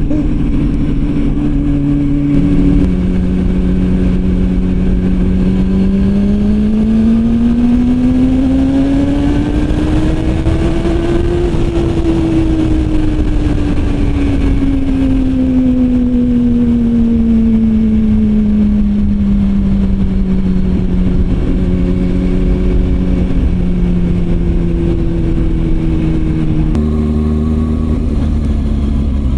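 Motorcycle engine under way, with wind noise. It shifts up about two seconds in, revs climb slowly for several seconds and then ease off, and it shifts down near the end.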